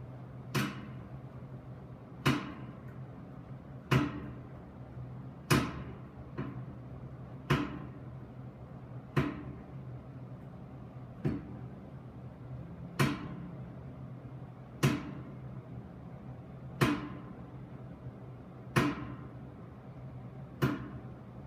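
A heater knocking sharply at a regular pace, about once every two seconds, over a steady low hum.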